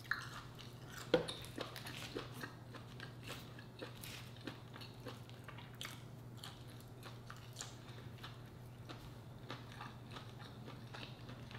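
Close-miked chewing and eating by hand: soft, irregular wet mouth clicks and smacks, with two sharper clicks near the start and about a second in, over a steady low hum.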